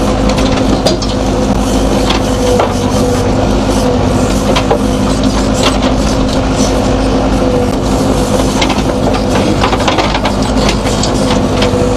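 A JCB backhoe loader's diesel engine running steadily, with frequent clicks, knocks and rattles from the machine as it works.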